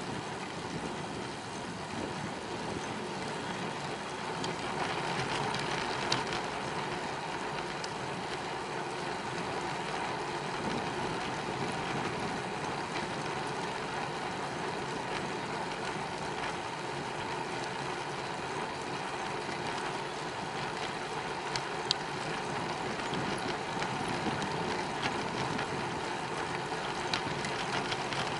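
Steady wind and road noise from riding a bicycle, with a few brief sharp ticks.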